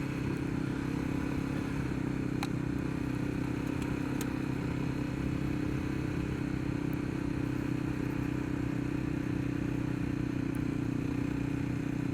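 Kawasaki KLX 300 single-cylinder dual-sport motorcycle running at a steady speed along a dirt road, its engine note unchanging over wind and tyre noise, with a couple of small ticks early in the ride.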